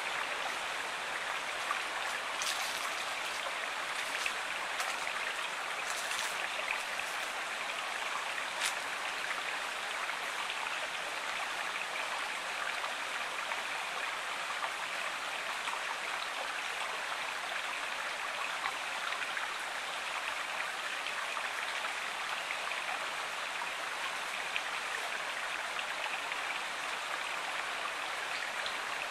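Flowing river water rushing steadily, with a few brief splashes in the first nine seconds.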